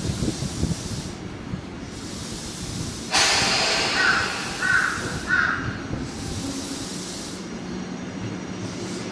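Electric train rumbling on the rails at a station platform. About three seconds in comes a sudden loud hiss of compressed air, which fades out over a few seconds. Three short crow caws sound during the hiss.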